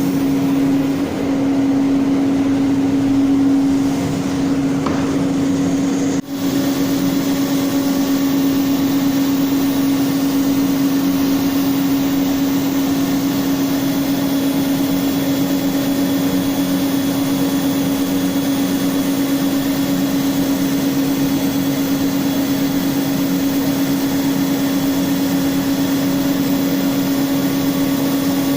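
CNC router spindle running steadily while it machines the wood: a constant high hum, with a brief drop about six seconds in.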